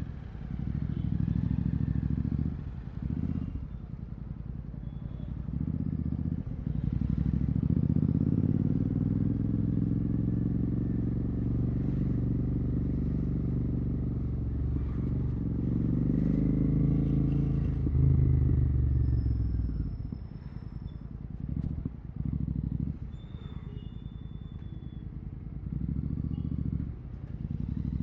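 Royal Enfield Continental GT 650's parallel-twin engine through a Red Rooster aftermarket exhaust with the dB killer removed, running in traffic. Short throttle openings come first, then a long pull from about a quarter of the way in, with the pitch climbing before the throttle closes about two-thirds of the way through. Shorter throttle blips follow.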